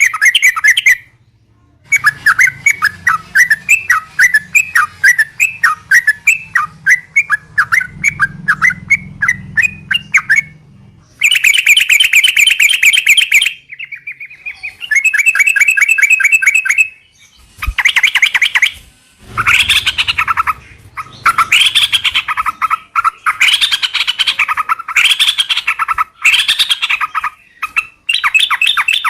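Yellow-vented bulbuls (trucukan) singing: fast runs of rapid chattering notes in repeated bursts, broken by short pauses, with the long rolling phrases that bird keepers call ropel.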